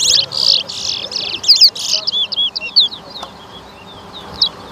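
Caged towa-towa finches (large-billed seed finches) singing in a head-to-head song race. There are rapid, dense, high song phrases for about two seconds, then separate whistled notes that sweep down in pitch and grow quieter.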